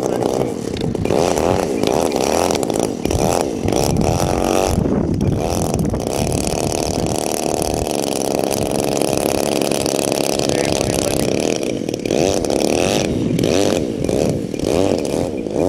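RC model airplane's motor running, its pitch rising and falling with the throttle and holding steady for a few seconds in the middle, as the plane tries to take off with a tail wheel that drags instead of rolling.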